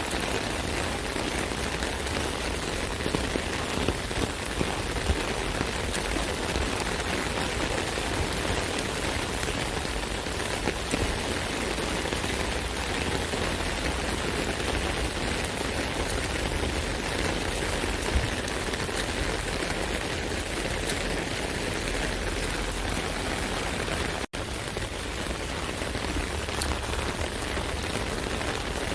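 Steady rain pattering on an umbrella canopy, a dense even hiss with scattered louder drop taps. It cuts out for a split second once near the end.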